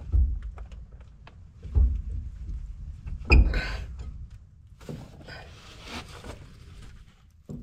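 Three dull, heavy metal thunks about a second and a half apart, then a softer scraping, as the flywheel of a Case 310 bulldozer engine is worked loose from the back of the engine.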